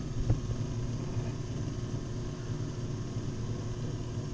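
Steady low mechanical hum, with a single small click about a third of a second in.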